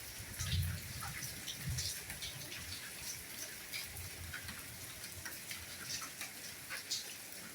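Steady soft rainfall with scattered individual drops tapping, and a few low dull thuds.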